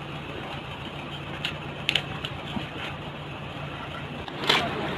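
Motorcycle engine running at low speed with a steady low hum, broken by a few sharp knocks about two seconds in and a louder one near the end.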